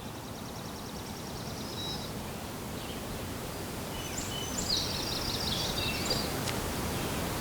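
Songbirds singing over a steady rustling outdoor background: a fast trill of repeated high notes in the first two seconds, then a more varied high-pitched song about four to six seconds in.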